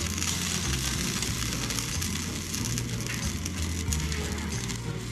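Food sizzling steadily as it fries, a constant hiss, over background music with a low bass line.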